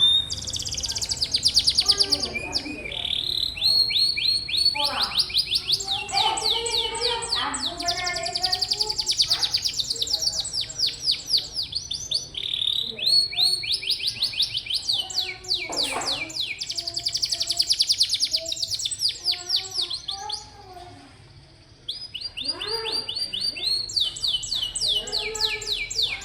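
Domestic canary singing: long trills of fast repeated high notes, mixed with lower warbling phrases. There is a brief dip in the song about twenty seconds in before it resumes.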